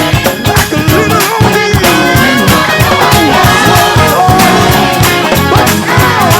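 Upbeat gospel church band playing a churchy tune with drums, bass, organ, keys, guitar and horns over a steady beat.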